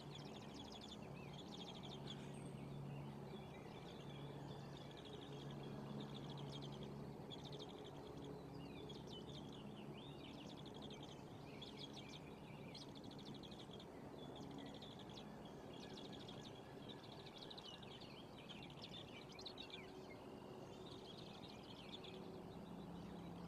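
Small birds chirping and trilling, many short calls one after another, over a low steady hum.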